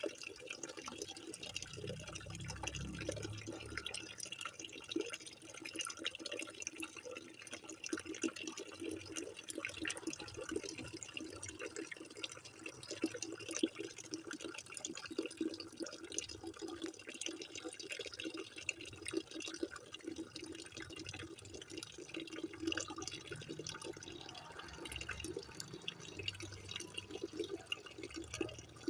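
Water running steadily, with a dense patter of small splashes and drips.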